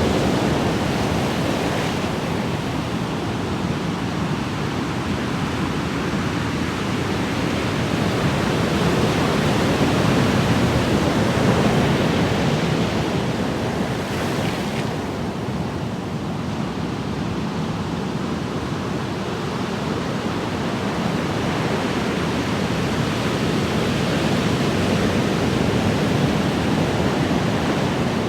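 Ocean waves washing on the shore in a steady wash of surf, swelling and easing slowly over several seconds.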